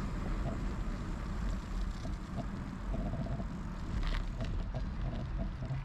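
Wind rumbling on the microphone of a moving bicycle, over tyre noise from the path. Light clicks and rattles from the bike come through now and then, one a little louder about four seconds in.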